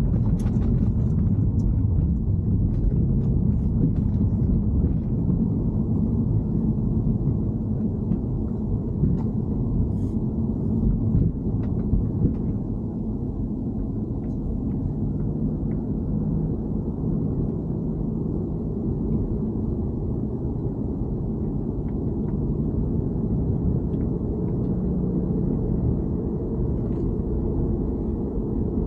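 BMW E90 3 Series on the move: a steady low rumble of road and engine noise, with scattered light clicks over roughly the first twelve seconds.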